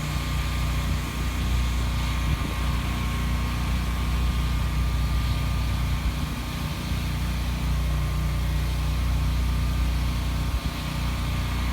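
Portable generator's engine running steadily: a constant low hum with a faint high whine over it.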